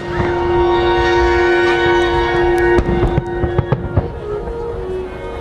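Fireworks popping and crackling over the show's orchestral soundtrack: a held chord sounds, then a quick string of sharp bursts comes about three to four seconds in, and the music carries on more quietly.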